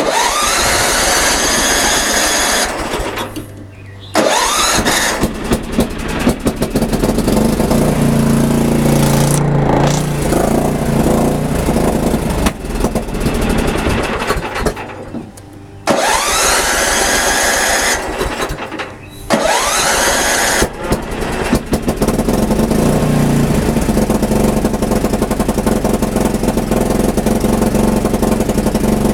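Craftsman RE2000 Ride and Mulch lawn tractor engine being cranked by its new electric starter several times, each try opening with a rising whine. The engine cuts out between tries and, about three quarters of the way through, catches and settles into steady running.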